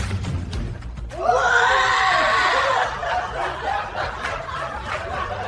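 Laughter: a loud run of chuckling starting about a second in, strongest at first, then trailing off into softer chuckles. Background music fades out just before it.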